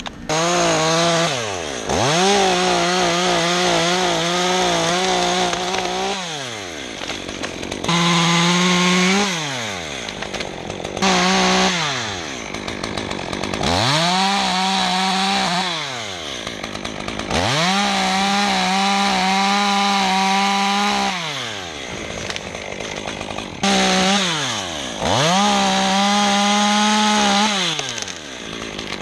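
Two-stroke chainsaw revved to full throttle in about six runs of one to four seconds each, dropping back toward idle between them, as it cuts through wood.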